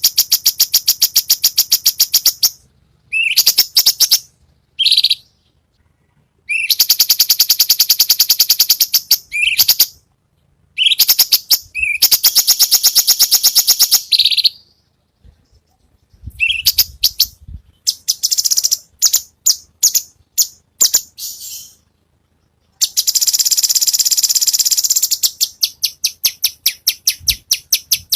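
Cucak cungkok calling in loud, high-pitched, harsh rapid trills, the "besetan" rattle prized in bird-song training recordings. The trills last two to four seconds each with short pauses, separated by short rising notes, and about two-thirds of the way through comes a run of separate sharp notes, roughly three a second.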